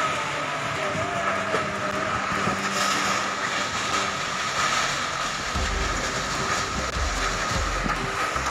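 Tornado winds howling in a loud, steady rush, with heavy gusts buffeting the microphone from about halfway through.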